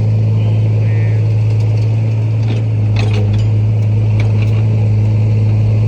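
Steady low drone of a motor vehicle running, with a few faint clicks and knocks about halfway through.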